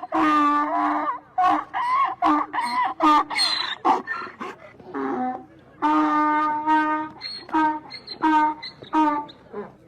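Goats bleating over and over, a run of short calls with a few longer held ones, some overlapping as if from more than one animal.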